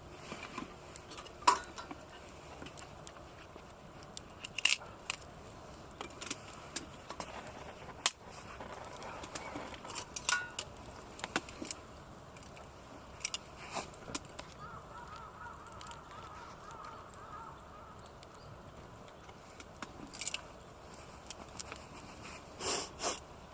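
Wood campfire crackling, with irregular sharp pops and clicks, and now and then light clinks of metal camp gear. Near the end come two short, harsher sounds.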